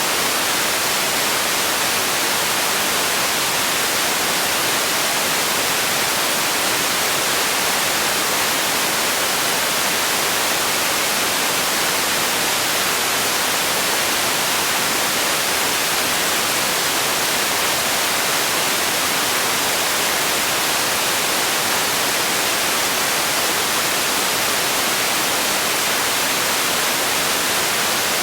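Steady hiss of synthetic white noise, even and unchanging, with most of its weight in the high end.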